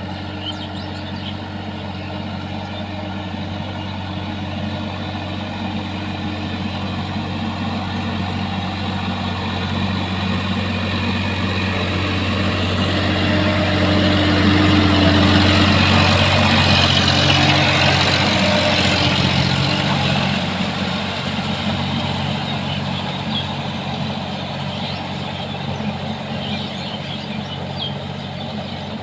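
Sonalika tractor's diesel engine running steadily. It grows louder toward the middle, as if coming close, then fades again.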